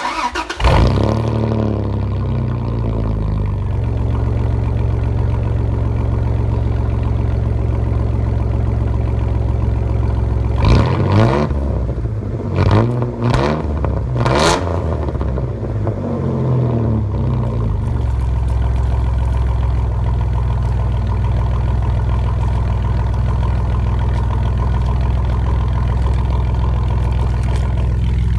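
1999 Dodge Ram 1500's 3.9L V6 with a straight-piped exhaust (no muffler, straight pipe after the catalytic converter) starting up, flaring and settling to a loud idle. About ten seconds in it is revved three times in quick succession, then drops back to a steady idle.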